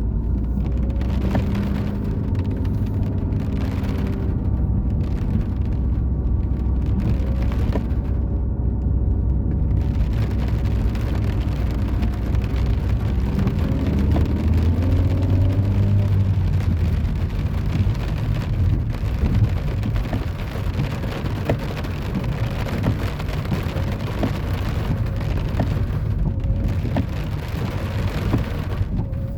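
Rain falling on a city street with car traffic. A car engine runs close by for the first ten seconds or so, another engine revs up about halfway through, and after that mostly steady rain hiss remains.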